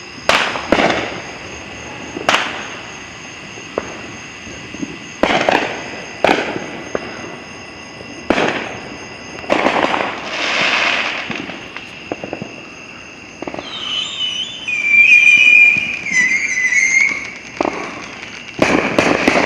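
Consumer fireworks going off in the neighbourhood: a string of sharp bangs at irregular intervals, a stretch of rushing crackle about ten seconds in, and a few seconds of wavering whistles in the middle of the second half.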